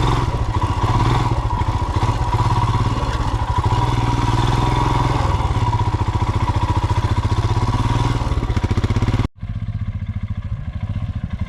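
Royal Enfield Himalayan's single-cylinder engine running with a steady, loud beat. About nine seconds in the sound cuts off abruptly, and the engine continues quieter.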